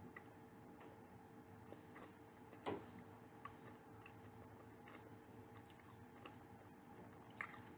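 Near silence over a faint steady hum, broken by a few soft clicks. The sharpest click comes about two and a half seconds in and another near the end.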